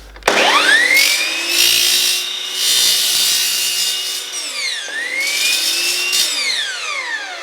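Electric cutting tool cutting miters into aluminium channel. The motor whines up to speed, and harsh cutting rasps come as the blade bites the metal. The motor bogs down briefly near the middle and recovers, then winds down with a falling whine near the end.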